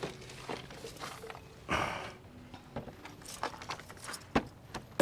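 Hands working with mounting hardware: scattered light knocks and clicks, with a short rustling scrape about two seconds in.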